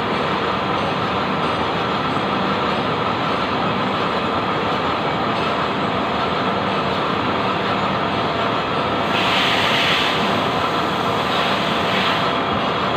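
Metal lathe running with a steady mechanical rumble. There are brief louder hissing stretches about two-thirds of the way through and again shortly after.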